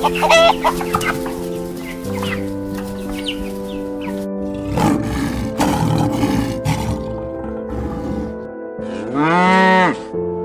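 Chickens clucking over background music with steady held chords, followed near the end by one long drawn-out animal call.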